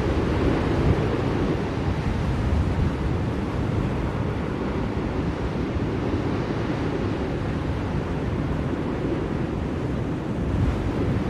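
Blizzard wind blowing steadily: a constant deep rushing noise that rises and falls slightly in strength.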